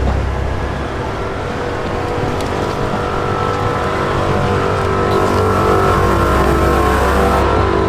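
Vehicles driving past with their engines running. There is a low exhaust rumble that is strong at the start, eases, then swells again in the second half.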